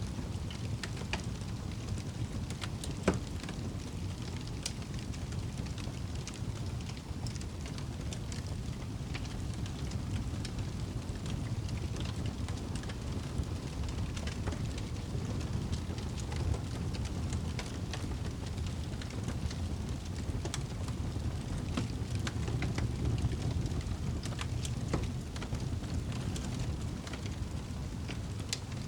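Campfire burning with irregular crackles and pops, one sharper pop about three seconds in, over a steady low rumble.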